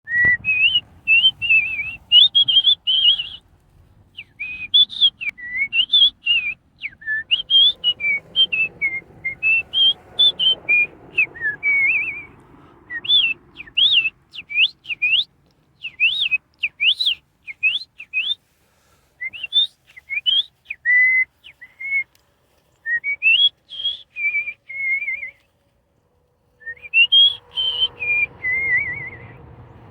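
A bird whistling clear notes in repeated phrases that rise and fall in pitch, with short pauses between them; in the middle it makes quick up-and-down swoops, and near the end a fast warbling run.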